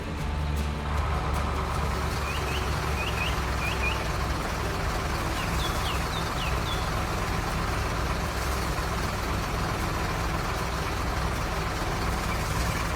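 Heavy diesel machinery engine running steadily with a low rumble, typical of an excavator at work. A few short high bird chirps come in two small groups over it.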